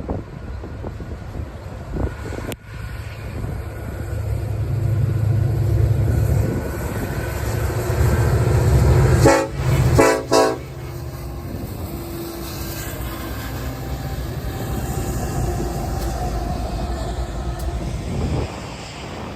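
Diesel freight locomotives passing with engines running, the lead unit sounding its horn in two short blasts about halfway through, followed by the steady rumble of the train's cars rolling by.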